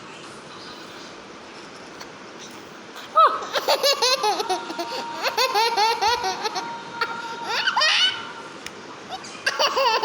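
A baby laughing: after about three seconds of quiet, a sudden run of quick, repeated laughs that lasts some five seconds, then a short burst again near the end.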